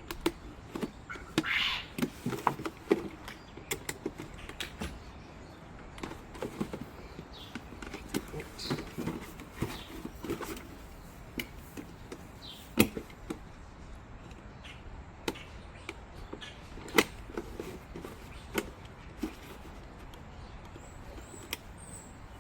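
A plastic gallon juice jug being cut and handled to make a scoop: irregular sharp clicks, knocks and scratchy plastic crinkling, with a louder knock about thirteen seconds in and another about seventeen seconds in.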